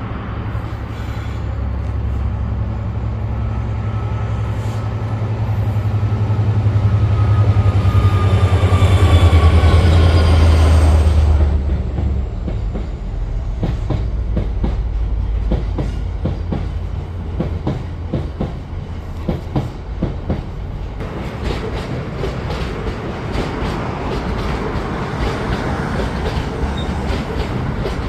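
GBRf Class 66 diesel-electric freight locomotive, with its two-stroke V12 engine, passes close by: a low engine drone with a whine that falls in pitch, loudest about ten seconds in and dropping away sharply a couple of seconds later. Its train of loaded limestone wagons then follows, the wheels clicking and clattering over the junction's rail joints and points.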